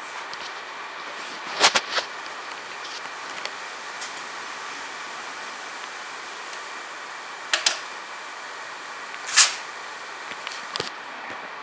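Steady background hiss with a faint hum, broken by a few sharp clicks and knocks: two close together about two seconds in, a pair near the middle, and the loudest one later on.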